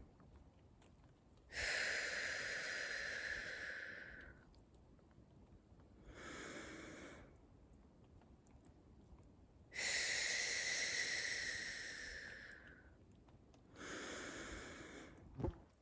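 A woman's slow, deep breathing close to the microphone. There are two full cycles, each a short, soft breath followed after a pause by a long, louder breath lasting about three seconds.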